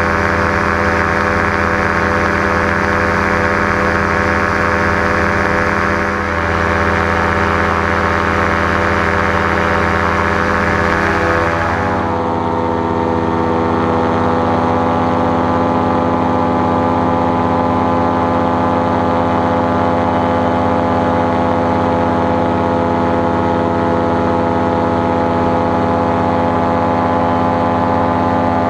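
JPX two-stroke paramotor engine and propeller running steadily in flight; about twelve seconds in the pitch dips slightly and the sound turns duller, as if the throttle is eased back.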